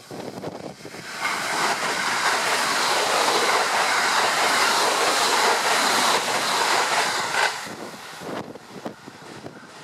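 681 series limited express electric train passing through the station without stopping. A loud rush of train noise sets in sharply about a second in, holds for about six seconds, then fades. Gusting storm wind buffets the microphone underneath and is left on its own as the train noise dies away.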